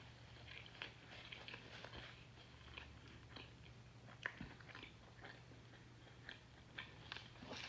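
Close-miked chewing and biting: soft, irregular wet clicks and crackles, with one sharper crunch about four seconds in, over a faint steady low hum.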